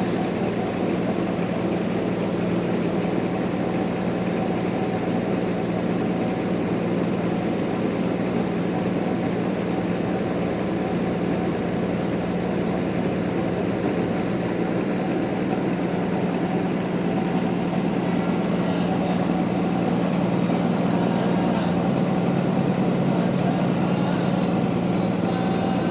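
Sawmill machinery running steadily: a continuous loud engine-like hum with no clear breaks or cuts.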